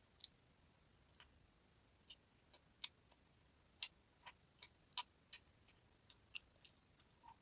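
Near silence broken by faint, irregular small clicks and ticks, about fifteen of them, scattered unevenly and bunched between about two and seven seconds in.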